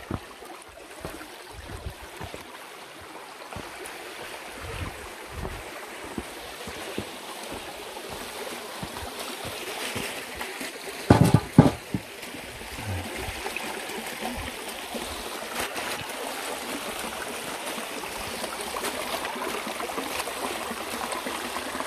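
Steady flow of a mountain valley stream, with scattered low bumps in the first half and a brief, loud pitched sound about eleven seconds in.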